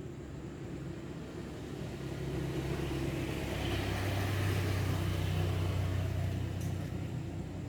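A motor vehicle passing by: a low engine hum and road noise that grow louder, peak about halfway through, then fade.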